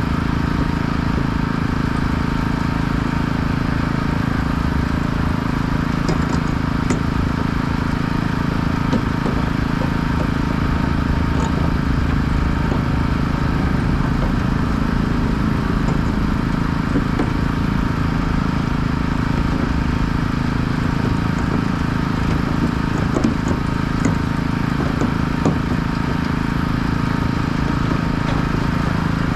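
An engine running steadily at an even pitch, with a few faint clicks over it.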